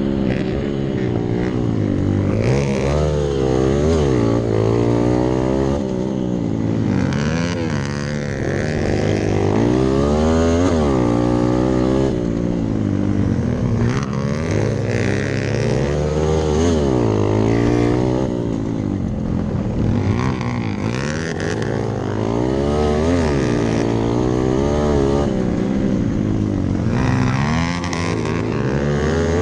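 Hero Impulse dirt bike's single-cylinder engine being ridden hard, its pitch repeatedly rising as the throttle opens and dropping as it shifts or backs off.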